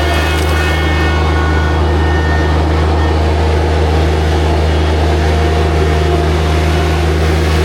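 New Holland TZ22 compact tractor's diesel engine running steadily.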